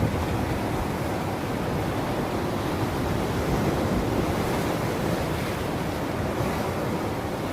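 Ocean waves washing onto a shore in a steady, continuous rush of surf, without distinct single breakers.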